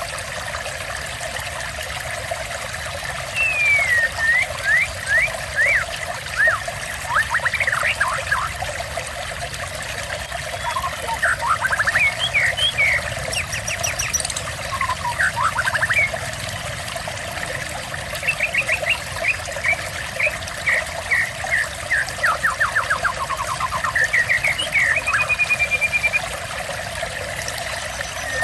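Steady trickle of running water under a songbird singing in bursts of whistled notes, sweeping calls and fast trills, with short pauses between phrases.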